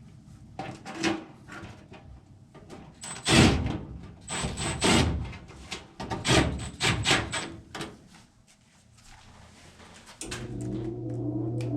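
A run of sharp knocks and scraping as furnace parts are handled, some with a short metallic ring, then a furnace motor starts and hums steadily near the end.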